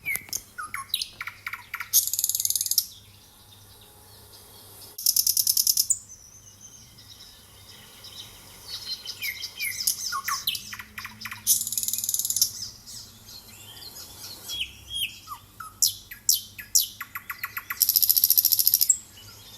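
Nightingale singing: phrases of very fast rattling trills alternate with short whistled notes and slides, separated by brief pauses.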